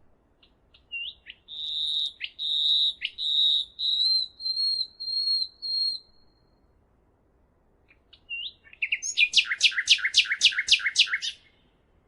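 Songbird singing: a phrase of clear, high whistled notes lasting a few seconds, then after a pause a fast run of about ten chirps, each sweeping down in pitch.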